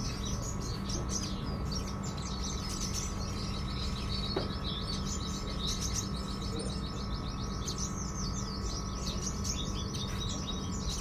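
Sogon songbird singing a continuous chattering song of high chirps, breaking into a long, fast trill of rapidly repeated notes a few seconds in. A steady low hum runs underneath.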